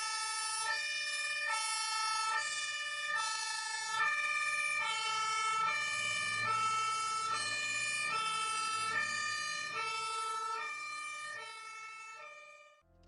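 Emergency vehicle two-tone siren, alternating between a high and a low note about every 0.8 seconds, fading away near the end.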